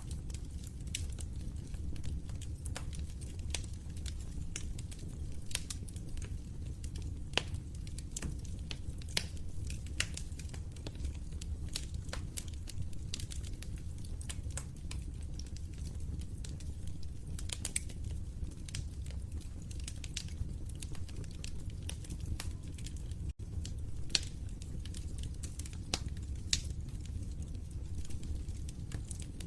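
Wood fire crackling, with frequent sharp pops and snaps at irregular intervals over a steady low rumble of flames.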